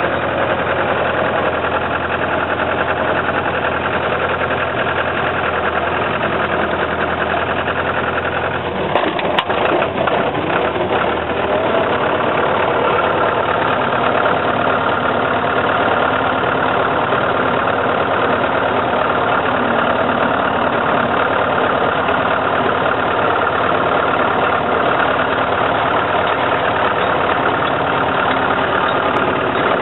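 Car engine running steadily during a drive. About nine seconds in there is a brief knock, and the low steady hum gives way to a broader, even noise.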